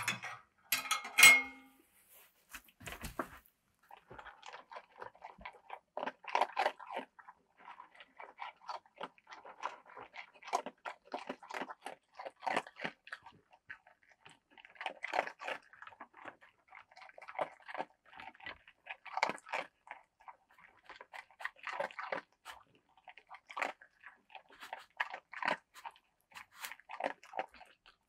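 Crunchy chewing of crisp food: short crunches coming several a second in irregular runs, with brief pauses between mouthfuls.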